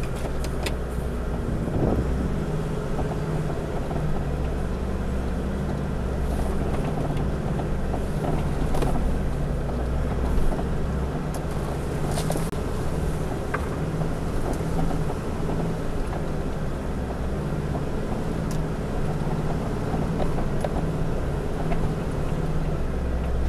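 Four-wheel drive's engine running steadily at low revs, with a few light clicks and knocks over it.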